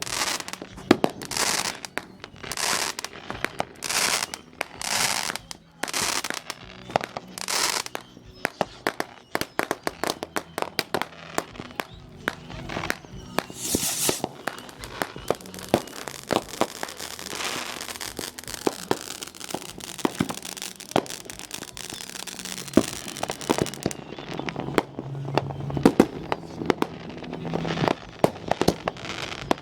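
Consumer fireworks going off: a run of short hissing bursts mixed with sharp bangs over the first half, then a long spell of dense crackling and scattered pops.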